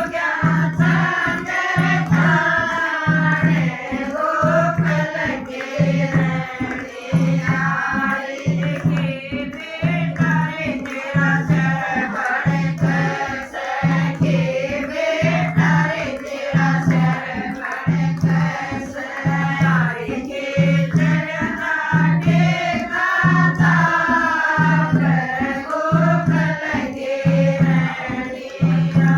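Group singing of a Haryanvi devotional bhajan to Krishna, voices in call-and-response style over a steady hand-drum beat.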